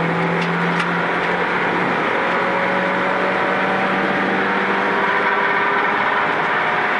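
Rally car's engine pulling hard down a gravel straight, its pitch climbing slowly as it accelerates. It is heard from inside the stripped, caged cabin, with a steady hiss of tyres and gravel underneath.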